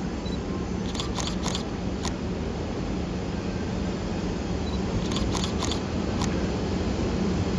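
The approaching EF64 electric locomotive and its delivery train make a steady low rumble and hum that grows slightly louder. Short bursts of sharp camera-shutter clicks come about a second in and again about five seconds in.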